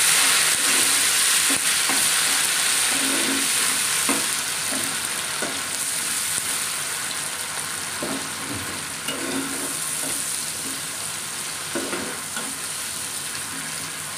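Ground tomato frying in hot mustard oil with browned onions in a nonstick pan: a steady sizzle, with repeated scrapes and strokes of a spatula stirring it. The sizzle slowly dies down as the tomato cooks.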